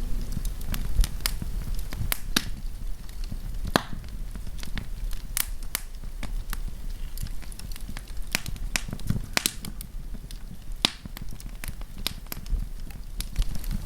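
Wood campfire crackling: irregular sharp snaps and pops from the burning wood over a low steady rumble of the flames.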